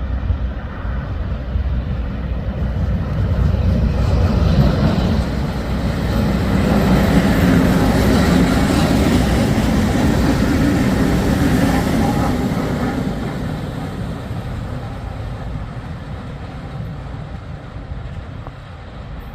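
A train passing: a rumbling roar that builds, is loudest in the middle, then fades away toward the end.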